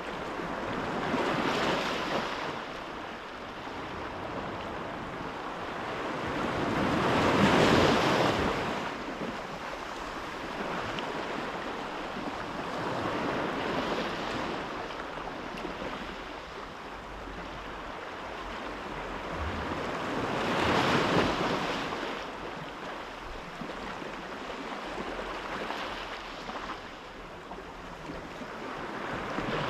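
Sea waves surging and washing in, swelling and fading about every six seconds over a steady hiss, with the biggest swells about seven and twenty-one seconds in; wind runs underneath.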